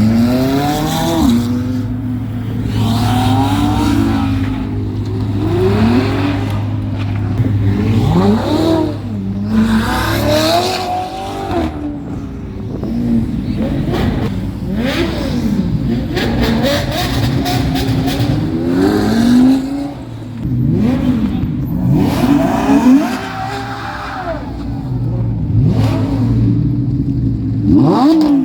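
Car engines revving over and over, the pitch climbing and falling every second or two, over a steady low engine drone.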